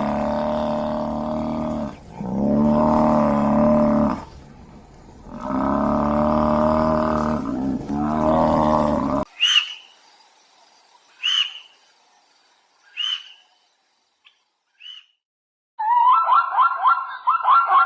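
A sequence of different wild animal calls. First come four long, drawn-out calls in a low, buzzy pitch. Then a few short, high chirps sound about two seconds apart, and near the end a fast run of yelping calls begins.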